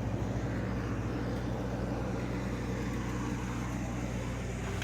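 A motor vehicle engine idling steadily, an even low hum.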